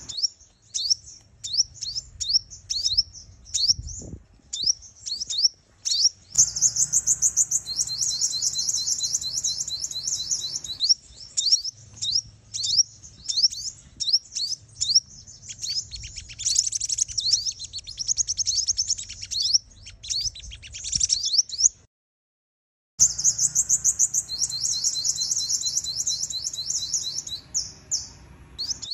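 Sunbird calls said to be a female's, used as a lure to provoke males: rapid, high, thin chirps and down-slurred notes, running into fast trills several times. The sound breaks off completely for about a second near the end, then starts again.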